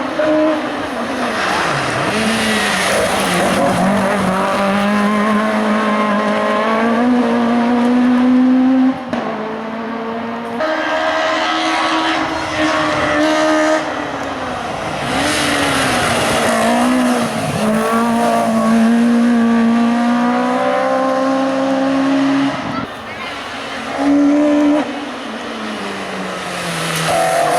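Hill-climb race car engines revving hard, the pitch climbing and then dropping sharply again and again as the drivers shift gears and brake into corners.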